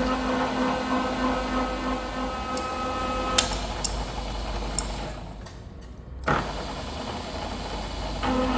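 Milling machine running while boring a steel cylinder eye, with a steady pitched hum for the first three seconds or so and a few sharp ticks. It goes quieter around five seconds, a knock follows just after six, and the hum returns near the end.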